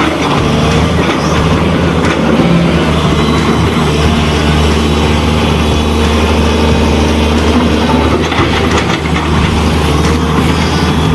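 Diesel engine of an articulated dump truck running steadily.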